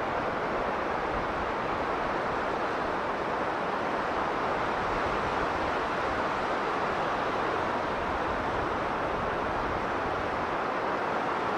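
Strong blizzard wind blowing as a steady, even rush without gusts or breaks.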